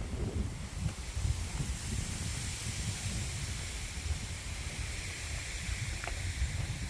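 Wind noise on the microphone: an irregular low rumble under a steady high hiss.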